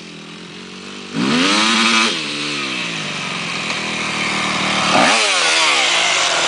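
Motocross bike engine revving. The pitch climbs sharply about a second in, holds briefly and falls back, then dips and climbs again about five seconds in and stays up.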